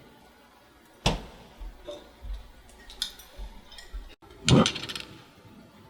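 Glassware and dishes being handled: a string of light clinks and knocks, with one louder knock about four and a half seconds in.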